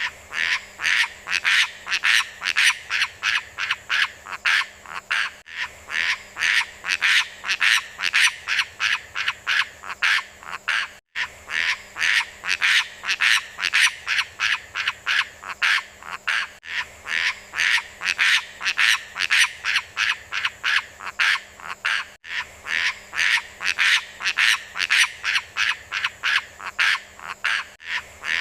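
Calls of the bird sold as 'beo lumut' in a fast, even series of short croaking notes, about three a second, from a recording looped with a brief gap about every five and a half seconds.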